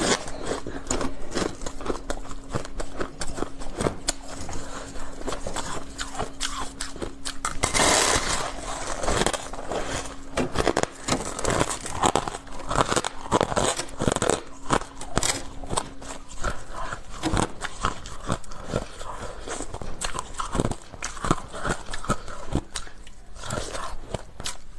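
Close-miked chewing of ice: a dense, irregular run of cracks and crunches, with a louder burst of crunching about eight seconds in.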